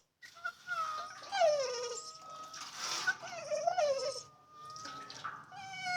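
A pit bull whining over and over: a string of high whines, several sliding down in pitch and some held on one steady high note. The dog is whining in frustration at water it wants to bite but can't reach.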